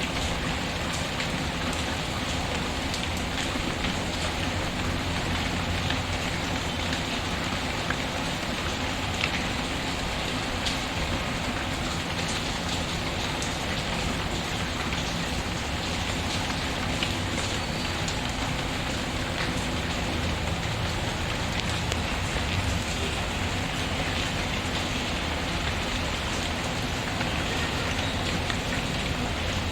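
Steady rain falling on a surface, with a few scattered faint pops from a crackling wood fire.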